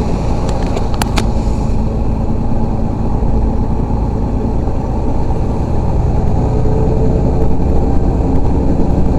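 Heavy truck running, heard from inside the cab as a steady low drone of engine and road noise, with two sharp clicks about a second in.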